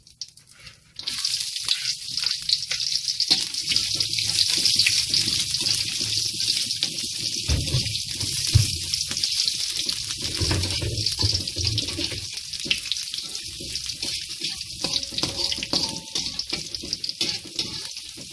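Sliced shallots and garlic sizzling and crackling in hot oil in an aluminium wok; the sizzle starts abruptly about a second in as they go into the pan. A spatula scrapes and knocks against the wok a few times while they are stirred.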